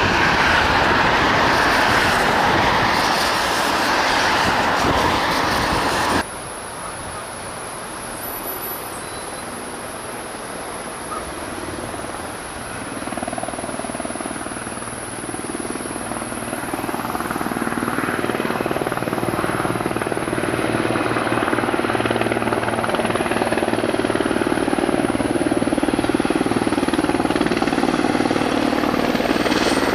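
Aircraft engine noise. A loud, steady rush of noise cuts off suddenly about six seconds in, and a quieter steady aircraft sound follows that slowly builds toward the end.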